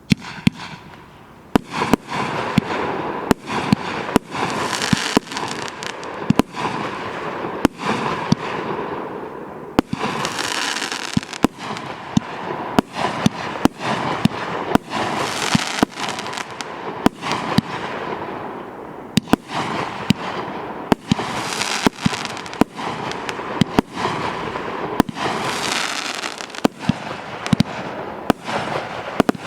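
A firework battery (cake) firing shot after shot: sharp bangs come one to two a second from the very start, with a continuous hissing noise between them.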